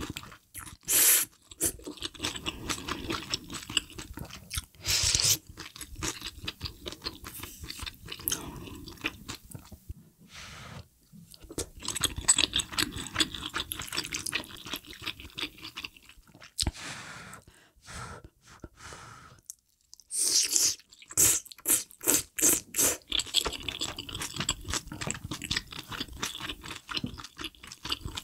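Close-miked chewing and crunching of spicy hot pot ingredients (vegetables, meat and noodles in mala broth), with wet mouth noises and a few louder slurps.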